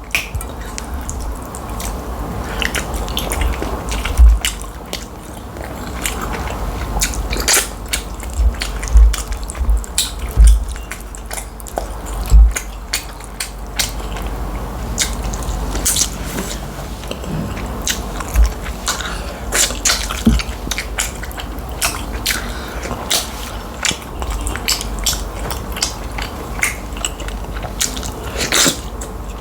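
Close-miked mukbang eating sounds: chewing tilapia fish and starch in light soup, with frequent sharp wet clicks and lip smacks scattered irregularly throughout.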